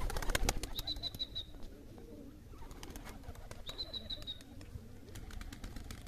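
Bird calls: two short runs of quick, high chirps about three seconds apart, with a burst of sharp clicks at the start and fainter clicks near the end.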